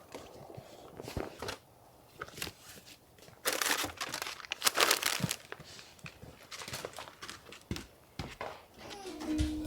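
Paper being crumpled and rustled by hand in irregular bursts of crinkling, loudest from about three and a half to five and a half seconds in.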